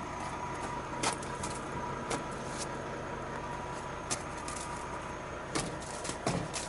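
Truck engine running steadily under a thin constant whine, with a few scattered sharp clicks.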